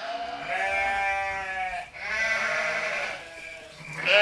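Sheep bleating as a sound effect for counting sheep: two long, wavering bleats one after the other, with a third starting just at the end.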